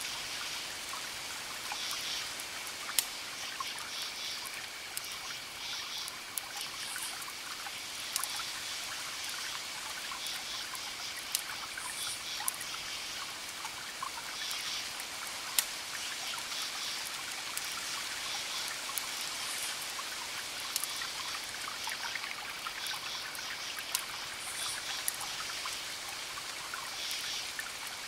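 Wood fire crackling, with sharp pops scattered irregularly over a steady hiss. A high pulsed chirping comes in short bursts every few seconds.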